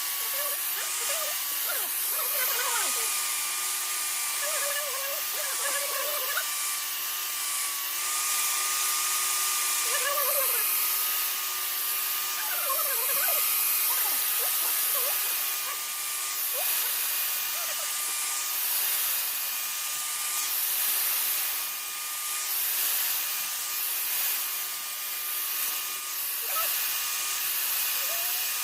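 A small electric power tool running steadily with a constant whine, and a high hiss that swells and fades every few seconds as it works the metal.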